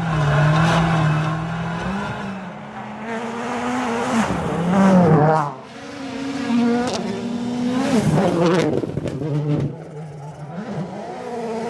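Rally car engine revving hard, its pitch climbing and dropping again several times as the driver shifts and lifts, with a sharp drop about five and a half seconds in.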